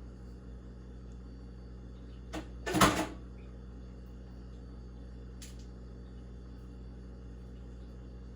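A faint click, then a brief loud clatter about three seconds in, over a steady low appliance hum.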